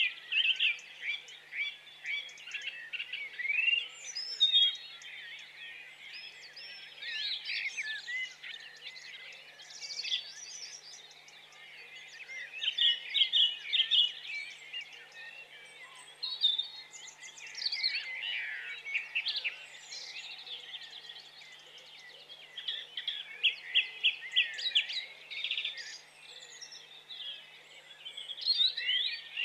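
Small birds chirping and singing, many short calls overlapping, with quick runs of repeated notes every few seconds.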